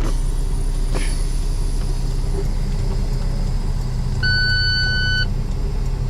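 Semi truck's diesel engine and road noise droning steadily inside the cab while driving. About four seconds in, an electronic beep from the dash sounds once for about a second.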